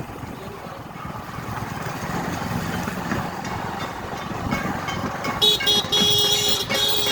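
Outdoor street din, then from about five and a half seconds in a loud, steady horn-like blare that holds to the end.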